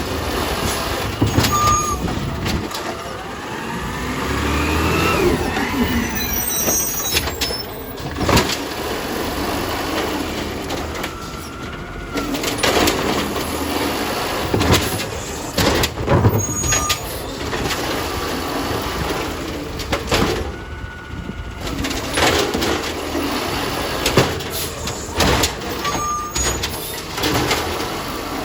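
Garbage truck at work: the engine running under a rising whine, with repeated bangs and short hisses as it collects trash.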